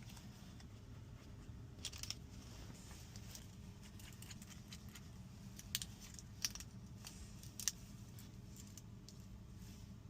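Faint scattered small clicks and taps of hard objects over a low steady hum.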